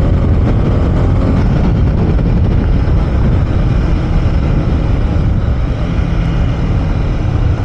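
Honda CB300R's single-cylinder engine running steadily while riding, mixed with heavy wind rush on the microphone.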